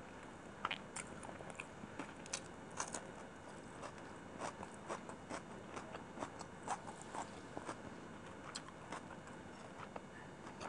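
Close-miked eating of chicken biryani by hand: chewing, with short wet mouth clicks and crackles coming irregularly, several a second, over a steady hiss.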